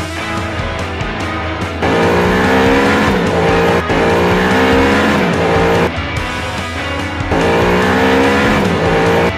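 A car engine sound effect passes twice, its pitch sliding down each time, over background rock music.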